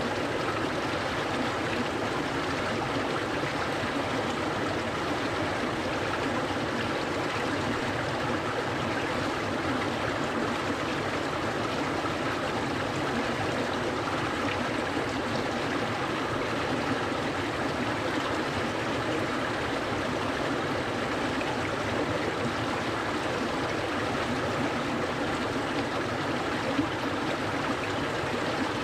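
Clear mountain stream flowing and babbling over rocks, a steady rush of water.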